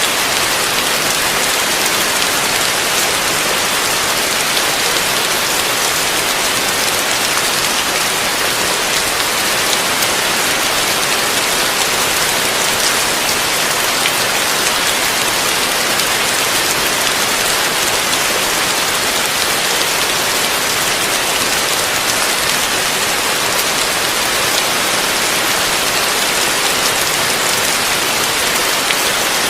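Heavy rain falling steadily on a surface, a dense, even hiss of drops with no let-up.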